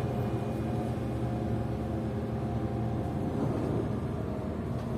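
Steady running noise inside a PKTS-6281.01 'Admiral' trolleybus: a low rumble with a steady electrical hum made of several constant tones.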